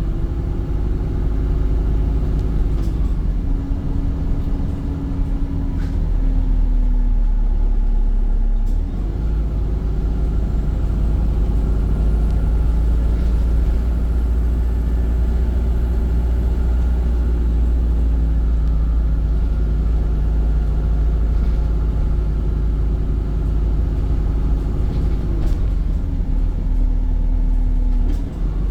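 Volvo B5 bus's drivetrain running in service: a steady low rumble with several whining tones that step up and down in pitch as it pulls away and slows, and a faint high whine that rises and falls midway through. These are the odd drivetrain noises this bus is known for.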